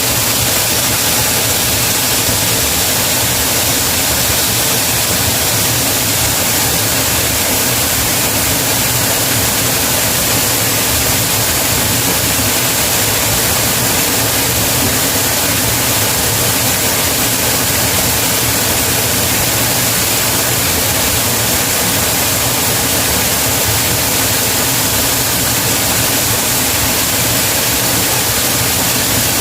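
Waterfall pouring: a loud, steady rush of falling water that never lets up.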